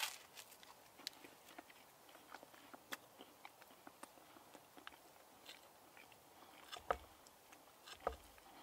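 Faint eating sounds: a person chewing a mouthful of bread and fried breakfast, with scattered small clicks and two slightly louder knocks near the end.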